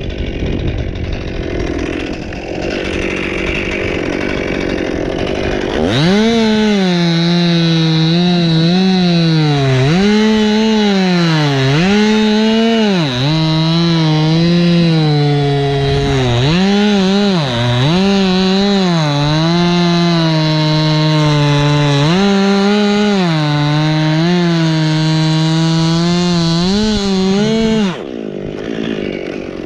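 Chainsaw cutting into Canary Island pine wood, its engine pitch repeatedly dipping as the chain bogs in the cut and climbing again as it frees. The saw's tone comes in about six seconds in and stops near the end, with a rougher noisy sound before and after.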